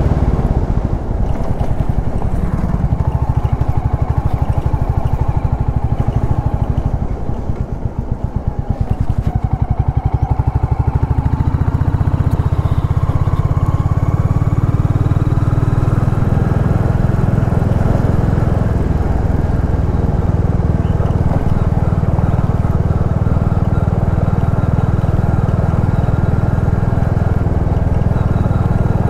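Royal Enfield Classic 350's single-cylinder engine running steadily on the move. The engine eases off for a couple of seconds about a quarter of the way in, then pulls again and runs on evenly.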